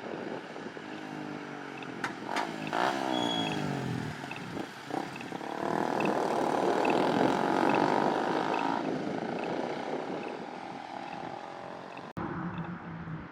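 Sports car engine revving as it pulls away, its pitch climbing in the first few seconds with a couple of sharp pops. Then a loud full-throttle run that is loudest about six to nine seconds in and dies away.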